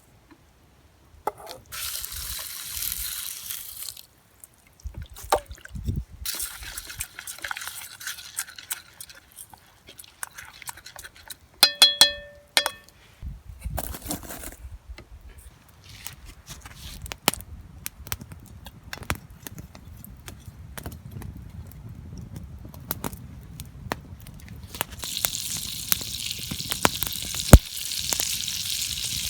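Food or liquid hissing in a hot pan over a campfire. The hiss comes in three stretches, with scattered clicks throughout and a brief ringing metal clatter about twelve seconds in.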